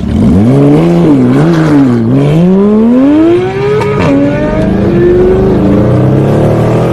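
Car engine revving hard, its pitch wavering up and down for the first two seconds, then climbing steadily. About four seconds in it breaks off sharply and settles into a steadier note.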